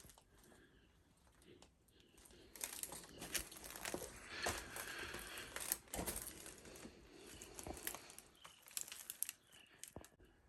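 Footsteps crunching and crackling over a debris-strewn floor, starting about two and a half seconds in, an irregular run of crackles with a few sharper snaps.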